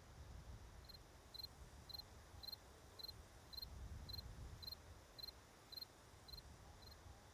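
A cricket chirping faintly: short, high chirps about two a second, starting about a second in, over a faint low rumble.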